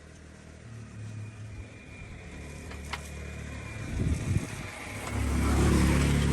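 Tractor engine running. It builds in level, gives a rough, uneven spell about four seconds in, then runs steadily and much louder from about five seconds.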